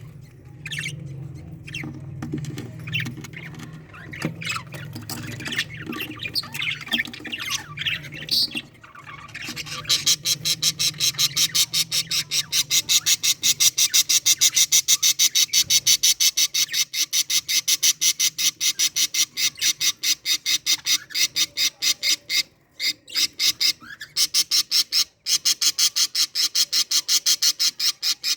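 Exhibition budgerigars calling: scattered chirps and warbling calls at first, then from about ten seconds a loud, fast, even run of harsh squawks, about five a second.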